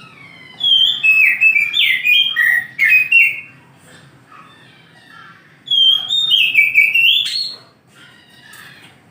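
Oriental magpie-robin (kacer) singing: two loud bursts of rapid, varied whistled notes that jump about in pitch, with softer calls between them.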